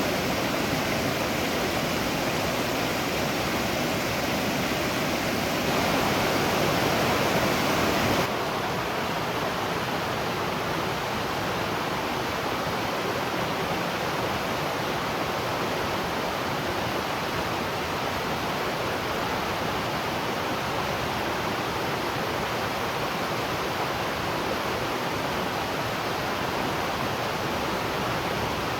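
Waterfall rushing steadily. About eight seconds in it cuts abruptly to a slightly softer, duller rush.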